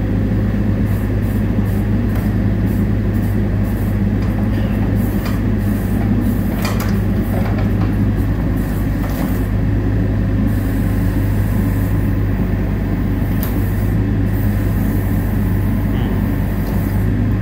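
Small excavator's diesel engine running steadily as it pulls a split tractor's front end away. A few clanks break through, the clearest about a third of the way in and again past the middle.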